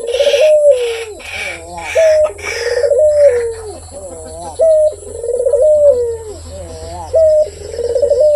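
Barbary dove (puter) cooing over and over: each phrase is a quick rising note followed by a long coo that falls in pitch, repeating about every two and a half seconds. A rapid hissy pulsing sounds alongside over the first few seconds.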